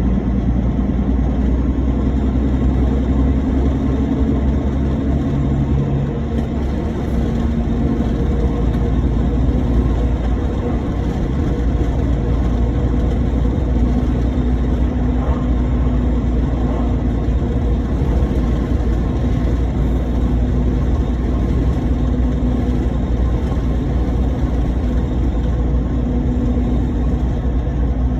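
Lorry on the move: a steady engine drone with road rumble.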